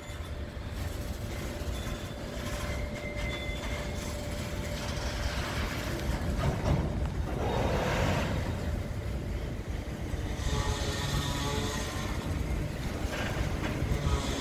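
Empty steel coal hopper cars rolling past on the rails with a steady low rumble of wheels and trucks, with faint squealing tones from the wheels now and then.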